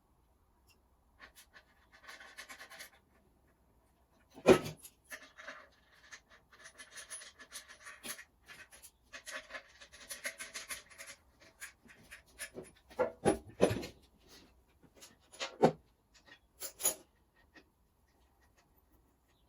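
Hands and tools working on an engine bay: intermittent scraping and rustling with a few sharp knocks, the loudest about four and a half seconds in.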